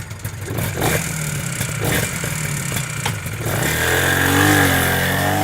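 Motorcycle engine running at low revs with a few short throttle surges. About two-thirds of the way in, it revs up, the pitch rising and the sound getting louder, as the bike pulls away.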